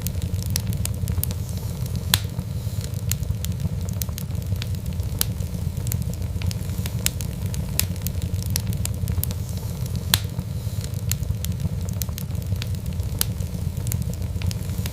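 Wood fire crackling: irregular sharp pops and snaps over a steady low rumble of flames, with a couple of louder pops.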